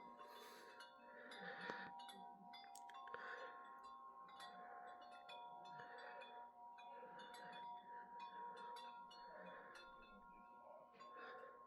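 Wind chimes ringing faintly in the wind: irregular light strikes, each leaving long ringing tones that overlap one another.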